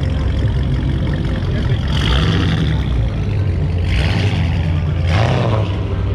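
Car engines rumbling at low speed, with three short revs about two, four and five seconds in.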